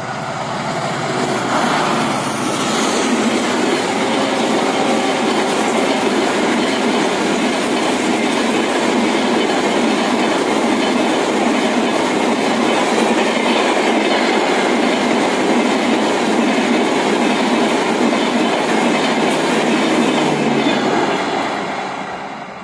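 A long passenger express train passing close by at speed: the steady rumble of coach wheels on the rails with clickety-clack over the rail joints. It swells over the first couple of seconds and fades near the end.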